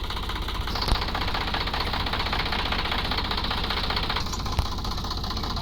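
Sonalika DI 745 III tractor's diesel engine running steadily, with a sharp knock about a second in and another near the end.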